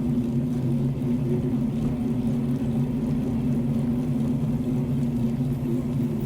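Steady low rumble and hum of a bicycle rolling along a paved road, picked up by a camera riding on the bike.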